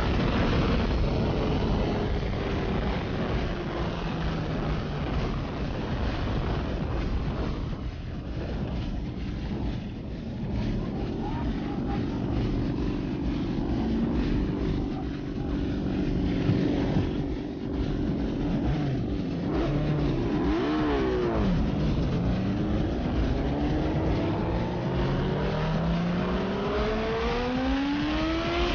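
Yamaha R6S sport bike's inline-four engine under way at speed, with steady wind rush. The engine note holds steady through the middle, dips about twenty seconds in, then climbs in several rising sweeps as the bike accelerates up through the gears.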